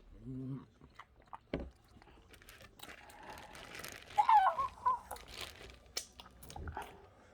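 Crab leg shells cracking and crunching as they are broken open by hand, with some chewing. The crackling is loudest about halfway through.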